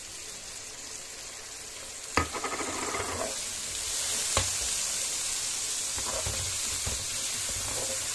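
Tomato purée sizzling in hot oil with sliced onions in a frying pan, stirred and scraped with a wooden spatula. The sizzle grows louder about four seconds in, and the spatula knocks sharply on the pan twice, about two seconds apart.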